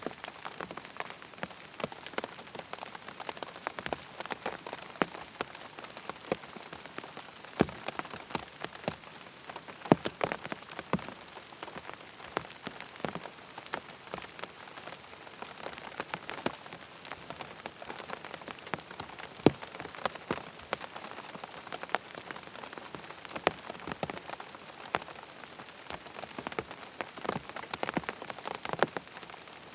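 Steady rain falling, with frequent sharp taps of drops striking a hard surface close by.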